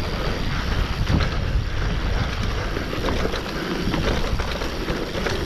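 Mountain bike riding fast down a rough dirt trail: wind rushing over the microphone, knobby tyres rumbling over the ground, and frequent short clicks and rattles from the bike.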